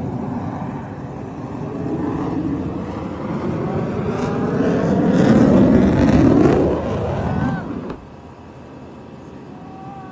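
Jet aircraft engine roar, swelling to its loudest about five to six seconds in and dropping off sharply at about eight seconds.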